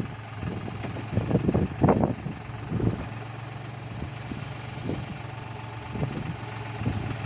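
Tractor engine idling with a steady low hum, with a few brief louder sounds in the first two seconds.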